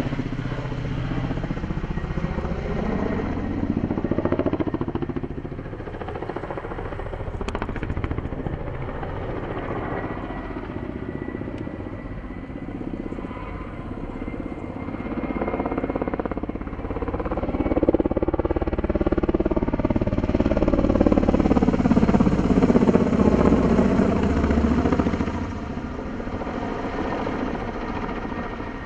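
Helicopter flying past: turbine and rotor noise that keeps going, swelling to its loudest about two-thirds of the way through and then falling away, with a steady high whine.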